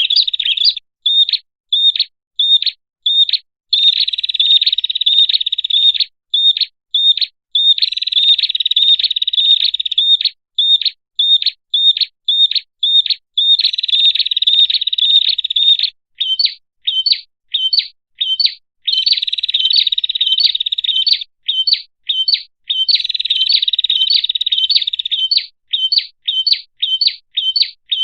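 Prinia (prenjak) song used as a bird lure. Sharp, high chirps come at two to three a second and alternate with rapid buzzing trills lasting about two seconds each, over and over.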